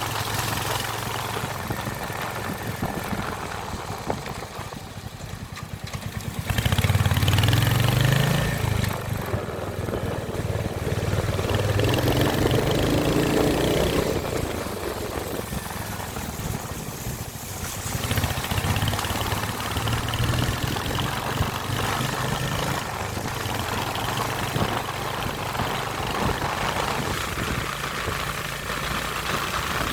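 Royal Enfield Hunter 350's single-cylinder engine running, its engine speed rising sharply about seven seconds in and again around twelve seconds, then settling back to a steady run.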